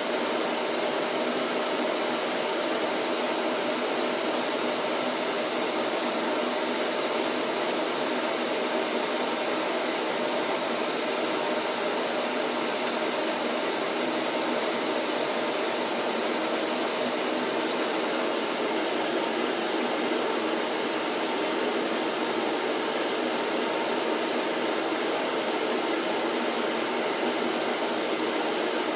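Vacuum cleaner running steadily: an even rushing hum of motor and airflow with a faint steady tone, no change in pitch or level.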